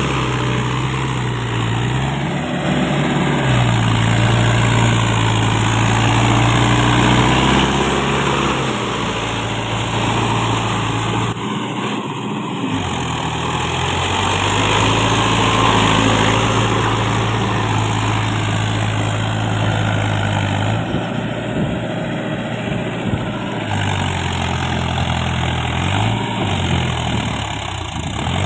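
Mahindra tractor's diesel engine running under load while stuck in mud, the engine speed rising and dropping several times.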